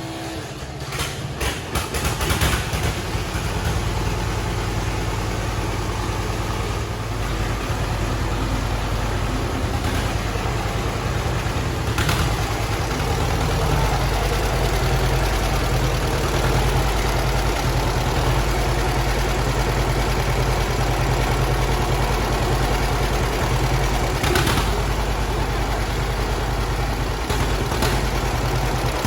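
Antique tractor engine running steadily, a little uneven for the first couple of seconds, with two sharp clicks along the way.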